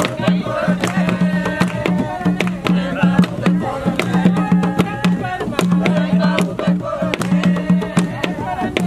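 Jongo drums beaten in a quick, steady rhythm, with voices singing over the drumming.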